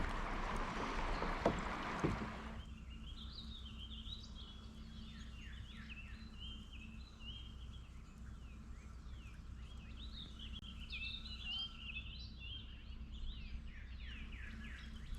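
Songbirds singing, many short chirps and trills overlapping. For the first two seconds or so a rushing noise with a couple of clicks covers them, then stops.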